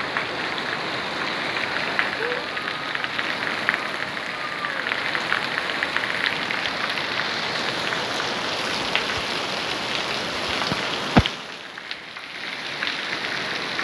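Heavy rain pouring steadily in a nighttime downpour. There is one sharp knock about eleven seconds in, after which the rain sounds briefly muffled.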